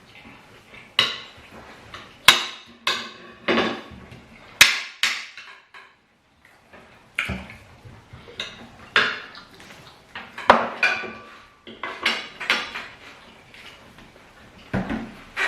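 Cutlery clinking and scraping against plates while eating, in irregular sharp strikes with short ringing tails, pausing briefly about six seconds in.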